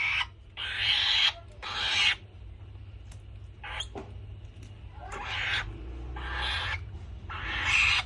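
Falcon giving a string of harsh, raspy screeches, about six short bursts at irregular intervals, over a steady low hum.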